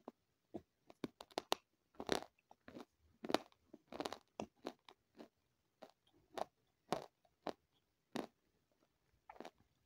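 A person chewing crunchy food close to the microphone: irregular sharp crunches and crackles, coming in quick clusters and then spaced out toward the end.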